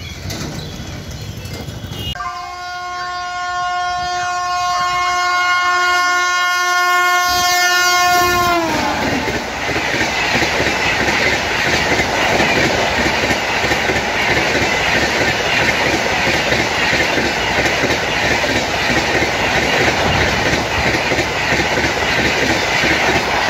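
Horn of a WAP-7 electric locomotive sounding one long blast of about six seconds, its pitch dropping sharply as the locomotive passes. Then the passenger coaches roll by with a steady loud rumble and rattle of wheels on the rails.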